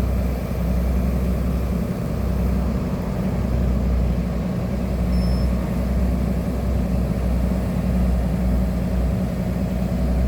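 Excavator's diesel engine running steadily with a low hum.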